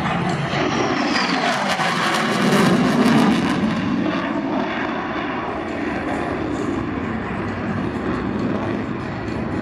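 F-35 Lightning II's jet engine roaring past in a low pass, a high whine falling in pitch in the first second or so, peaking about three seconds in and then easing off as it moves away.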